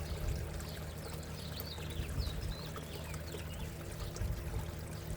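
Water pouring and trickling steadily into a backyard koi and goldfish pond, over a steady low hum. A few small bird chirps come in about the middle.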